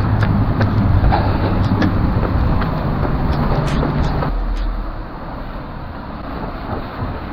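Motor vehicle running on a wet road, a low engine hum over tyre and road noise that drops away sharply about four seconds in, with scattered light taps.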